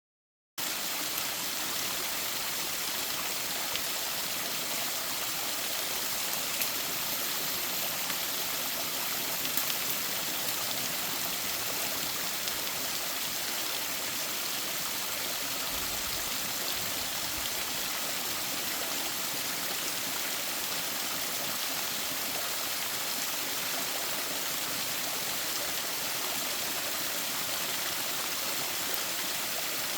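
Mountain stream flowing over rocks, a steady rush of water that starts abruptly about half a second in.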